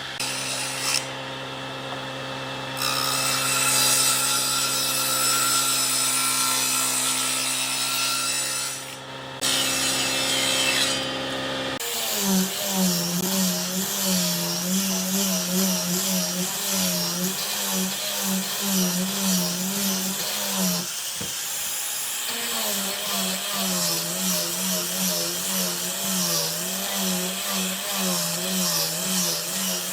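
Electric power tool working wood, running steadily at first. About twelve seconds in the sound changes, and its pitch then dips and recovers about once a second, as the tool's speed drops with each pass under load.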